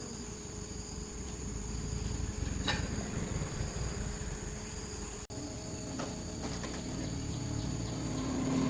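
Insects chirring steadily in a high, thin drone over a low background rumble, with a single sharp click a little under three seconds in.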